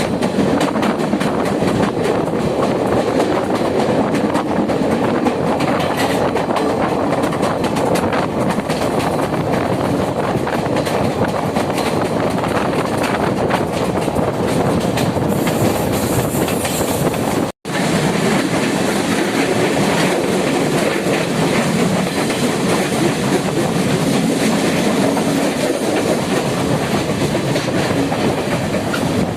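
Train running along the track: a steady rumble and rattle of the wheels with clickety-clack over the rail joints. The sound cuts out for an instant about two-thirds of the way through.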